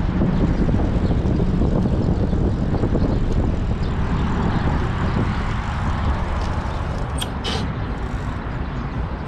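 Wind buffeting the microphone of a bicycle-mounted action camera during a ride: a steady low rumble that eases slightly near the end. Two brief hissing sounds about seven seconds in.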